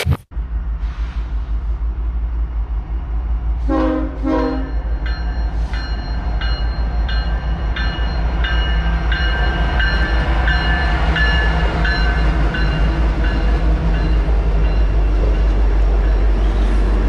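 Diesel freight locomotive passing with a steady low rumble. Its horn sounds two short blasts about four seconds in, then a bell rings steadily about twice a second.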